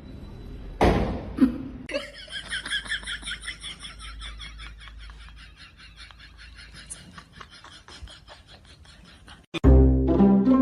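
A person laughing in a long run of quick, high-pitched bursts that slowly fade away. Near the end, loud music with plucked bowed strings cuts in.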